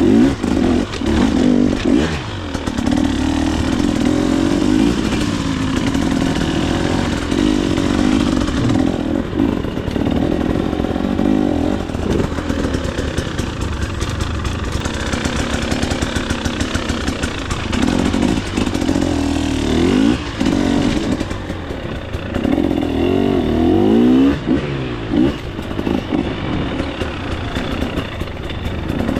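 2024 KTM 300 XC-W two-stroke dirt bike engine revving up and down over and over as it is ridden along single track, with rattles from the bike.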